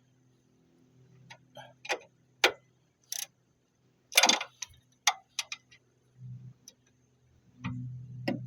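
Hand tools and metal suspension parts clicking and clanking at irregular intervals during strut replacement work, some strikes ringing briefly. A low hum comes and goes about a second in, again after six seconds, and near the end.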